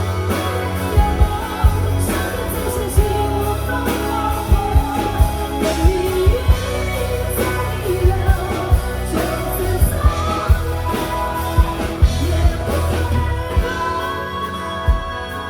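Live pop-rock band playing a ballad: a drum kit keeping a steady beat under bass and guitars, with a wavering melodic lead line on top.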